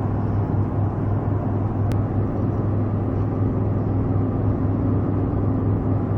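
Steady low drone of a car driving on the road, engine and road noise with no change in pitch.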